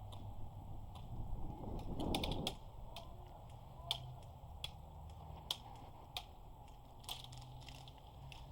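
Irregular sharp mechanical clicks and rattles, clustered about two seconds in and again near the end, over a low steady rumble.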